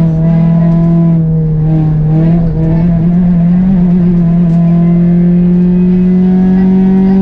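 Peugeot 206 RC Group A rally car's four-cylinder engine at high revs under load, heard from inside the cabin. It pulls steadily, its pitch holding at first and then slowly climbing over the last few seconds.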